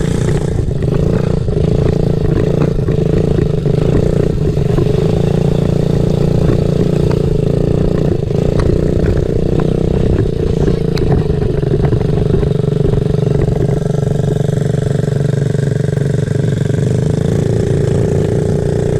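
Small off-road motorcycle engine running steadily at a fairly constant pitch, with occasional light clicks and rattles.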